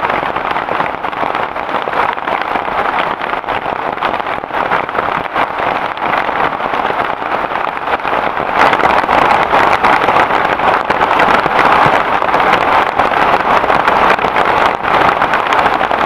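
Heavy rain falling steadily, a dense patter of drops that grows heavier about eight and a half seconds in.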